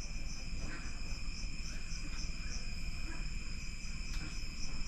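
Crickets chirping: a continuous high trill with faint pulses, about three a second, over a low background rumble.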